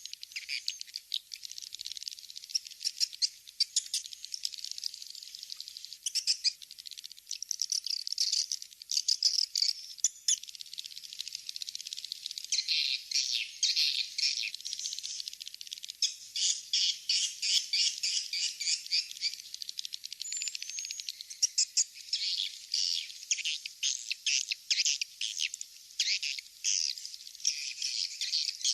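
Swiftlet call recording used as a lure for swiftlet houses: dense, rapid, high-pitched chirping and twittering of many swiftlets, overlapping without pause, with no low sounds beneath it.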